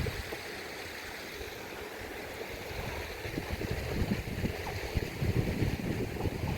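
Rushing water in a rainstorm, with wind buffeting the microphone in gusts that grow stronger about halfway through.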